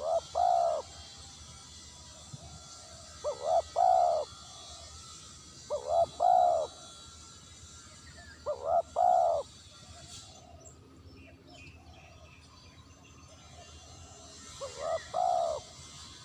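Spotted dove cooing: five short phrases of two or three coos each, about every three seconds, with a longer pause before the last one.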